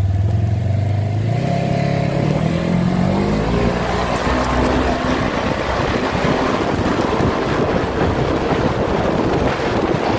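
A vehicle engine revving up, its pitch rising over the first few seconds as it accelerates, then running hard under heavy wind rush on the microphone.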